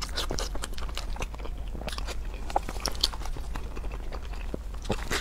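Close-miked chewing and biting of a mouthful of food: irregular wet crunches and mouth clicks, over a steady low hum.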